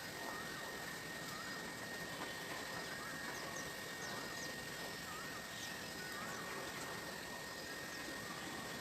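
Outdoor ambience: small birds chirping in short repeated notes over a steady high hum and a constant hiss.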